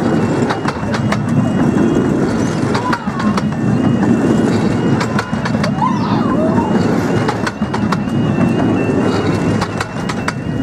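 Coaches of a 15-inch-gauge miniature railway train rolling past over the rails with a steady rumble and scattered wheel clicks. Over it, a level crossing yodalarm sounds a continuous high-pitched, rapidly alternating two-tone alarm.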